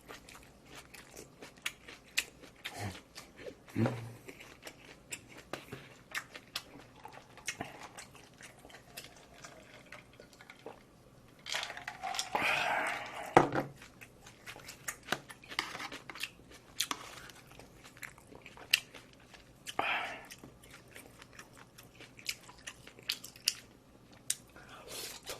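A person chewing and biting food close to the microphone: many short wet clicks and smacks, with a louder, longer noisy stretch about halfway through.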